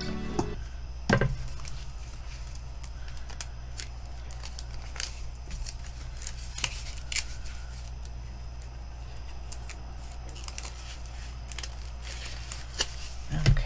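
Scissors snipping through the packaging on a rolled diamond-painting canvas, then crackling and rustling of plastic wrap and paper as the roll is handled and unrolled, with scattered sharp clicks and a louder knock about a second in.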